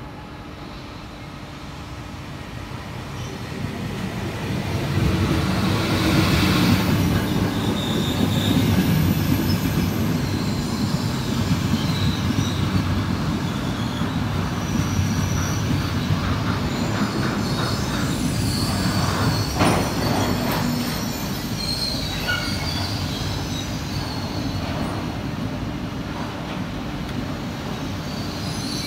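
Frecciarossa ETR 500 high-speed electric train pulling into the station. It grows louder as it approaches over the first five seconds or so, then its coaches rumble past along the platform while it brakes, with short high wheel and brake squeals. There is a sharp clank about twenty seconds in.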